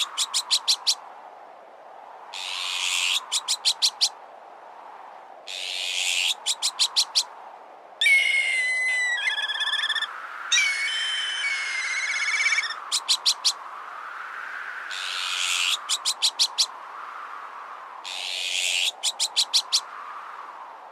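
A layered bird-repellent mix: wind gusts swelling and fading about every four seconds, and a harsh rasping call followed by a quick run of five or six sharp clicks, repeating about every three seconds, in the manner of azure-winged magpie alarm calls. About eight seconds in, two whistled, wavering calls with a falling glide, in the manner of black kite calls, last for about five seconds.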